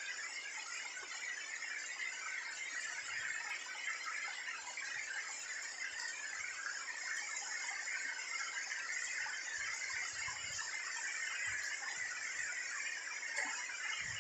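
Heavy rain falling steadily: a continuous, even hiss with no breaks.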